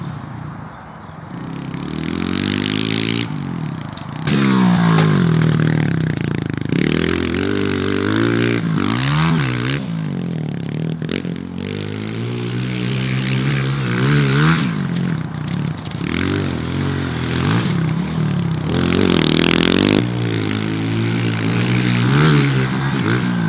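Honda CRF125 pit bike's single-cylinder four-stroke engine revving hard and easing off over and over as it is ridden round a dirt track, its pitch climbing and dropping with each burst of throttle and gear change.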